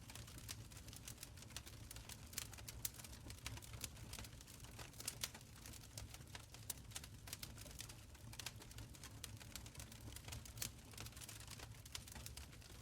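Wood fire crackling in a stone fireplace: a stream of irregular sharp pops and snaps over a soft low rumble of burning.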